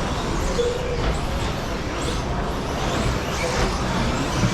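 Several radio-controlled short course trucks with 13.5-turn brushless electric motors racing on a carpet track: a steady blend of motor whine and tyre noise, with faint whines rising and falling as the drivers work the throttle.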